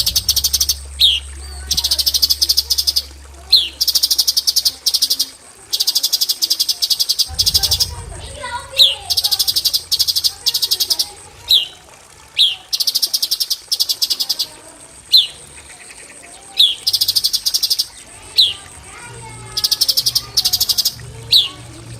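Cucak cungkok singing its 'tembakan' song: repeated fast buzzy rattling trills, each lasting about a second, alternating with short sharp falling whistles.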